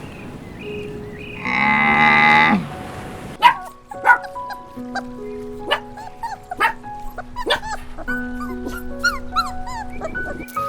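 A single drawn-out animal call, about a second long, a couple of seconds in, followed by light instrumental background music with plucked notes and short chirping whistles.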